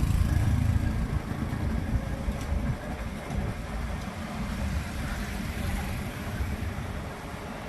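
Motor traffic and a motorbike engine running along a city street, with a steady low rumble of engine and road noise that is loudest in the first second or so and then eases.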